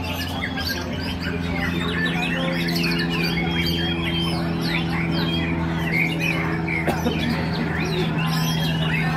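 Several white-rumped shamas (murai batu) singing at once, a dense tangle of overlapping whistles and chirps that runs without a break, over a steady low hum.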